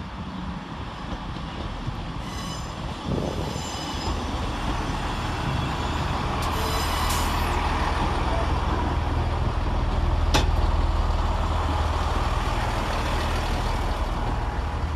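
Class 158 diesel multiple unit at a station platform: brief high brake and wheel squeals early on, then its diesel engines running as a low drone that grows louder to a peak about ten seconds in before easing. A single sharp click sounds near the peak.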